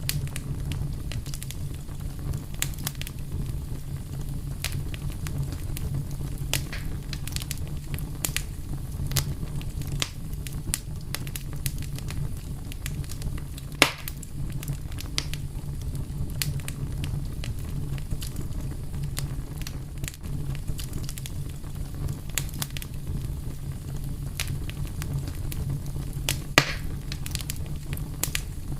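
Fire crackling over a steady low rumble, with scattered small pops and two louder pops, one about halfway through and one near the end.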